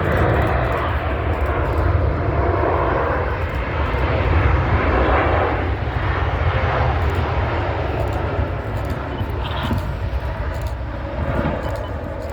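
Jet engines of a Boeing 787-9 Dreamliner on its landing roll just after touchdown: a steady, loud rumbling roar that swells briefly about four to six seconds in.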